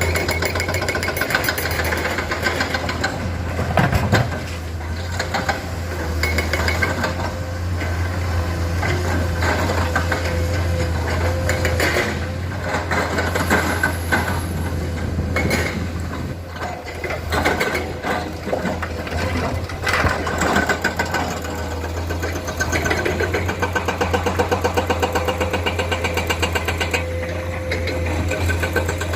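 Komatsu hydraulic excavator's diesel engine running steadily while digging and loading rock, with scattered sharp knocks and clatter.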